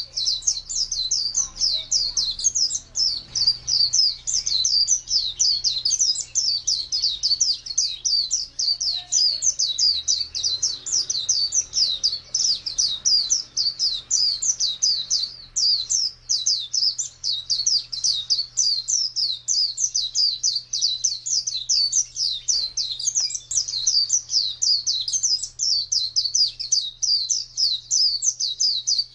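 A white-eye (pleci) singing its long, unbroken "ngalas" song: a rapid, high twittering of short chirps, several a second, with no pause, over a faint steady low hum.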